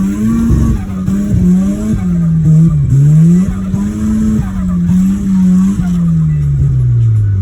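Mazda FC RX-7's six-port turbocharged rotary engine revving hard during a drift, its pitch climbing and dropping again and again as the throttle is worked, with tyres skidding.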